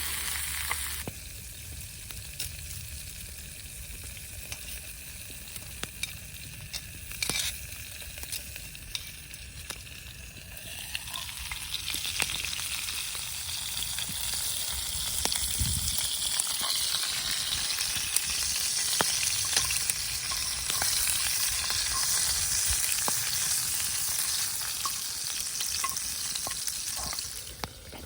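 Spare ribs sizzling in a skillet: a steady frying hiss with scattered sharp pops, growing louder about eleven seconds in.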